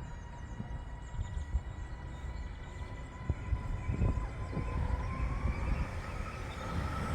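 Electric multiple unit train approaching, most likely a Northern Class 331: a steady whine over a low rumble, which rises in pitch and grows louder over the last couple of seconds as the train draws near.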